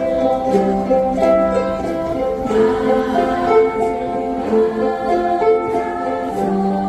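A ukulele ensemble strumming and playing a song.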